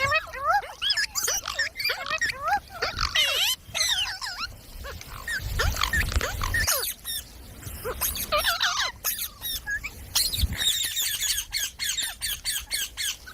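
Pet parrot chattering and squawking in quick chirps that rise and fall in pitch, mixed with sharp clicks, with a brief low rumble about halfway through.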